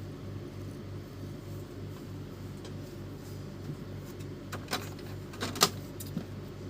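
Epson L310 inkjet printer mechanism running with a low, evenly pulsing hum, and a few sharp clicks past the middle, the loudest about two-thirds of the way through.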